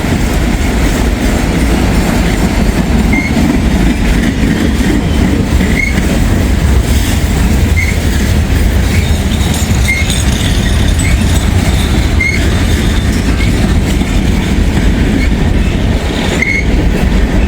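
Freight train cars rolling past: a steady loud rumble of steel wheels on rail, with a short high squeal about every two seconds.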